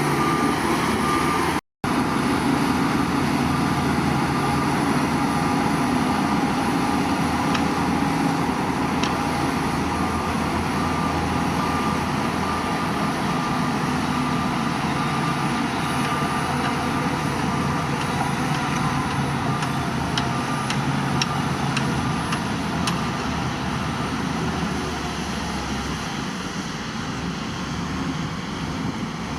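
Heavy diesel construction machinery running steadily under load, a continuous engine drone. The sound cuts out completely for a moment about two seconds in.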